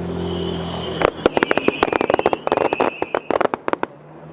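Fireworks going off in a rapid string of sharp crackling bangs, dozens in about three seconds, starting about a second in and thinning out near the end, over a high wavering whistle.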